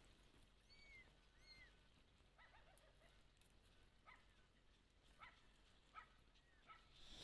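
Chicks peeping faintly: a couple of arched high peeps, then a scatter of short sharp calls every second or so.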